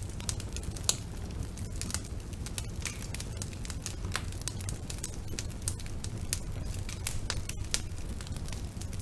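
Wood fire burning in a fireplace: a steady low rumble of the flames with irregular sharp crackles and pops from the burning logs, one louder pop about a second in.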